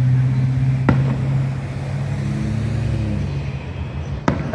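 Two sharp firework bangs, one about a second in and one near the end, over a steady low engine hum that fades away after about three seconds.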